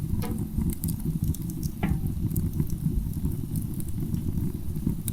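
Wood fire crackling in a fireplace, a low rushing rumble with scattered sharp crackles and two louder pops, about a quarter second and two seconds in, as the fire catches.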